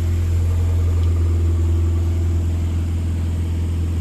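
1959 Morris Minor's 948 cc A-series four-cylinder engine running steadily at an even speed.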